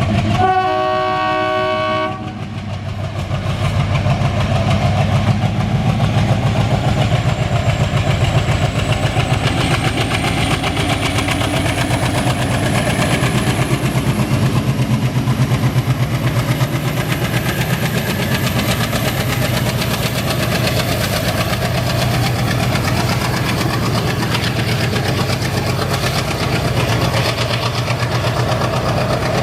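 Diesel locomotive horn sounds once for about two seconds, then the WDM3A's ALCO 16-cylinder diesel engine chugs steadily under power. A thin high turbocharger whine climbs slowly in pitch over it.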